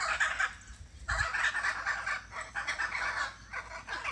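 Harsh, rapid chattering bird calls in bursts: a short burst at the start, then a longer one from about a second in that tails off near the end.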